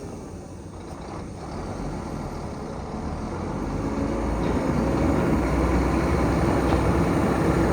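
Scania P114 dump truck's 11-litre six-cylinder diesel engine running, growing steadily louder from about a second in.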